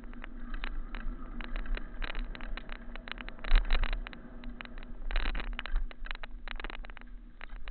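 Continuous rattling and knocking from riding a rough, rocky trail, with a low wind rumble on the action camera's microphone. The clatter is busiest about three and a half seconds in and again just after five seconds.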